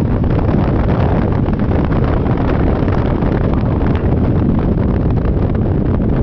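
Wind rushing over the microphone of a Yamaha Majesty 400 scooter on the move: a steady, loud, low rumbling noise.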